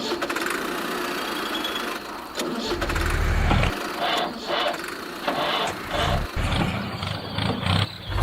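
An engine being started, sputtering: a steady rush of noise, then a low rumble about three seconds in, then a run of short, uneven bursts, roughly two a second.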